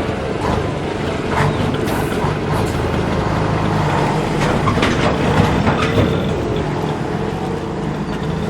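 Engine and road noise heard from inside a moving vehicle: a steady rumble with a few short clicks and rattles.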